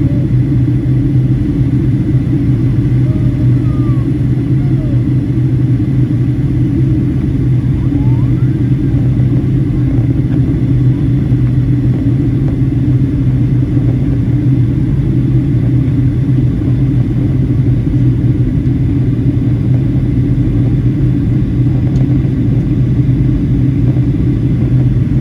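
Steady cabin noise inside a jet airliner: a constant low rumble with a deep hum and a faint steady high tone, unchanging throughout.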